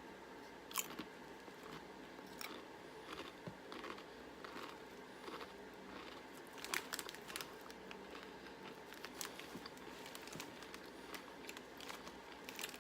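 Doritos tortilla chips being bitten and chewed, a run of faint, irregular crunches.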